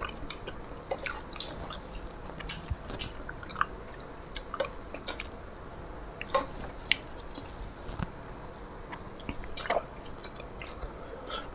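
Close-up eating sounds: scattered wet mouth clicks and lip smacks of people chewing rice and fish curry eaten by hand, with soft squelches of hands working the rice.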